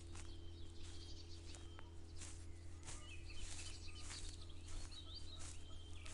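Small birds chirping in short, gliding calls over a steady low hum, with short crackles repeating about every two-thirds of a second.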